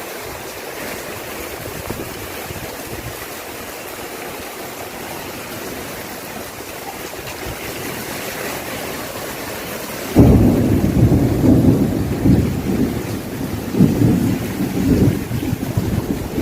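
Steady hiss of falling rain. About ten seconds in, a sudden, louder low rumbling sets in and carries on in uneven surges.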